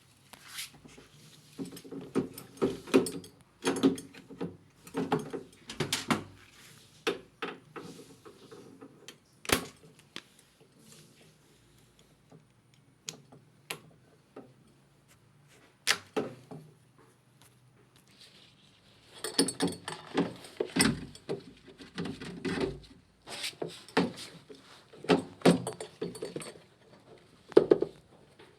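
Irregular knocks, clicks and light rattles of objects being handled, in busy clusters with quiet gaps between.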